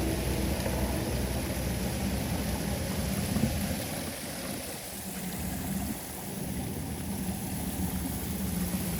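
Floodwater rushing down a cleared street drain, a steady low rumble with a faint hum running through it.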